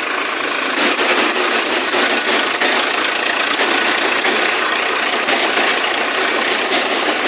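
Tractor engine running loudly and steadily.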